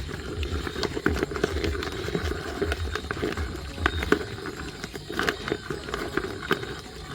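Irregular rustling with many small clicks and knocks scattered through it.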